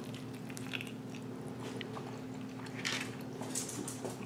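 A person chewing a bite of grilled chicken, with small, scattered wet mouth clicks. A steady low hum runs underneath.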